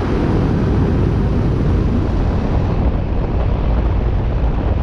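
Armstrong Air central air conditioner condenser running: the fan blowing and the compressor, which the owner takes for a Copeland scroll, humming in a steady, loud rush with air buffeting the microphone.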